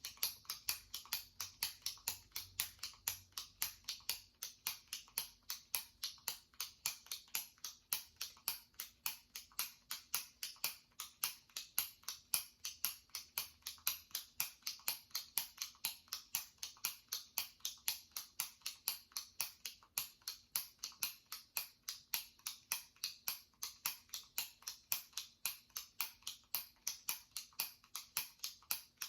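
Clicker of a jumbo retractable pen, its top button pressed over and over. It makes sharp plastic clicks at an even pace of about three a second.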